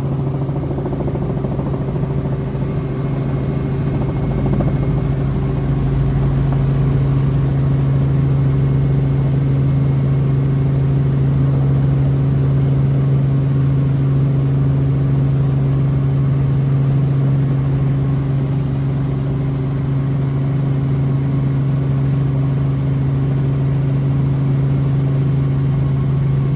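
Helicopter in flight heard from inside the cabin: a steady, loud drone with a strong low hum and its overtones, getting a little louder about six seconds in.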